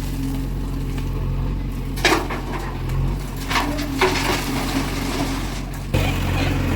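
Heavy diesel engine of a JCB 3DX backhoe loader running steadily, with a few sharp metal clanks about two, three and a half and four seconds in. The engine grows suddenly louder about six seconds in.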